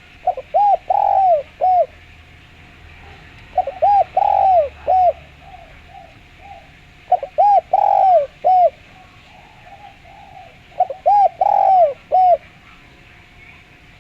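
Spotted dove cooing: four clear phrases of arched coo notes, one about every three and a half seconds. Faint high chirps of other small birds sound in the background.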